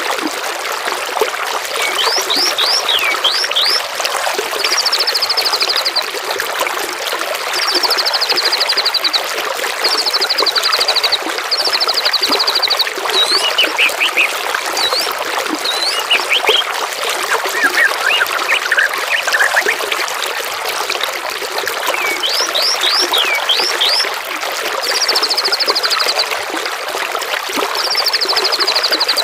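Songbirds calling over steady trickling, gurgling water: short trills about a second long come round every few seconds, mixed with groups of quick falling whistles.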